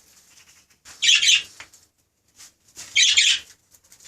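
Budgerigars in an aviary giving two short, harsh squawking calls, one about a second in and one about three seconds in.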